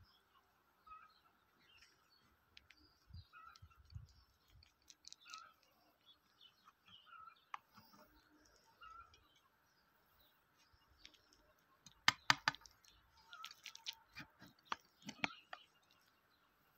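Faint bird chirping, a short note at the same pitch repeated about once a second. About three quarters of the way in comes a quick cluster of sharp clicks from a metal utensil on a glass baking dish, followed by a few more scattered clicks.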